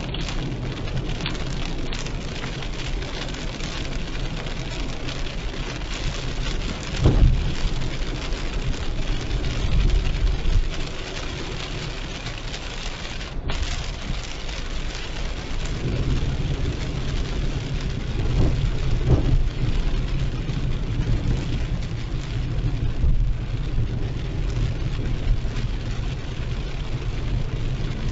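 Heavy rain pouring down over a moving car, a steady hiss with a low rumble beneath it. Louder low surges swell about seven seconds in, around ten seconds, and again from about sixteen to twenty seconds.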